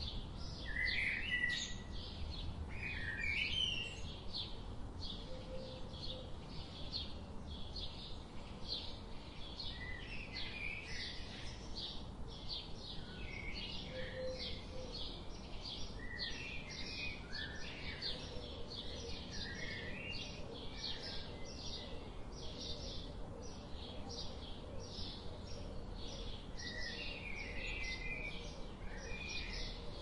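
Birds chirping: a steady run of short, high chirps, about three a second, with lower twittering phrases breaking in now and then.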